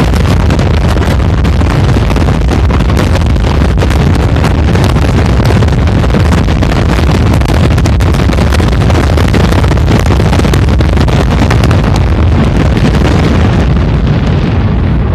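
Dense fireworks barrage: rapid, overlapping bangs and crackling over a heavy low rumble, thinning toward the end.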